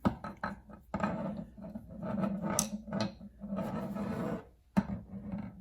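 Handling noise of two demolition screwdrivers with hard plastic handles and steel shafts: irregular knocks, clicks and rubbing, with one sharp knock near the end.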